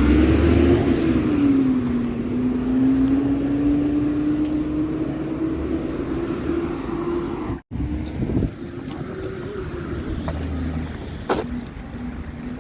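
A Hyundai New Super Aero City bus engine running while the bus drives, with a whining tone that rises and falls with road speed. The uploader describes this engine as in bad shape and noisy, making odd squealing sounds. The sound cuts out for a moment about two thirds of the way through and comes back quieter, and there is a single sharp click near the end.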